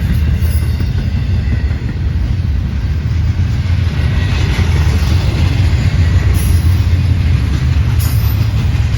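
Train rolling past on the track, a loud, steady low rumble.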